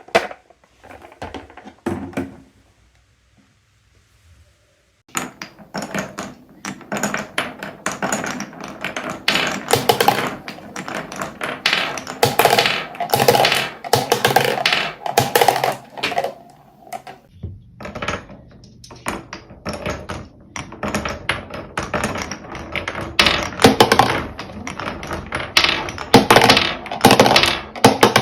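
Glass marbles rolling and clattering down a wooden Cuboro marble run: quick strings of small clicks and knocks. A few scattered clicks at first, then a dense clatter starting about five seconds in, easing off briefly past the middle and building again.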